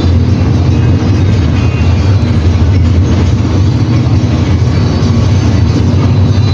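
Mercedes-Benz OF-1721 BlueTec 5 bus's four-cylinder inline OM-924 LA diesel engine running with a loud, steady low rumble.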